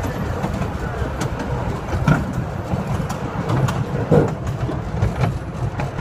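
Kids' ride-on train rolling along its track: a steady low rumble with a few knocks.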